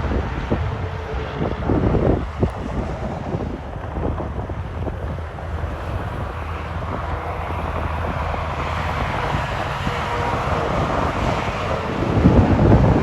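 Road traffic of passing semi trucks with wind on the microphone: a steady low engine drone fades after the start and swells again near the end as another vehicle comes close.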